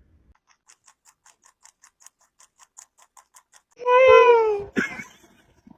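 A cat meowing once, loudly and drawn out, falling slightly in pitch. Before it, faint rapid ticking at about six a second, followed by a few sharp clicks.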